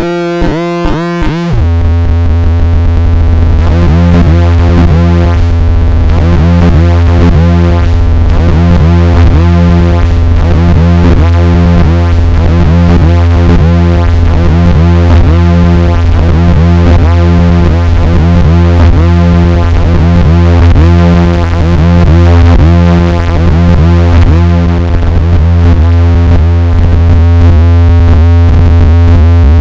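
Nova Drone analog drone synthesizer playing a steady low drone, with a higher tone pulsing about once a second above it. The sound is choppy for the first second and a half before it settles.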